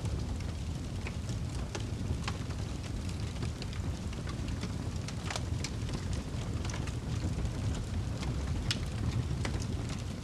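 Wood campfire crackling, with sharp pops scattered irregularly, a dozen or so, over a steady low rumble.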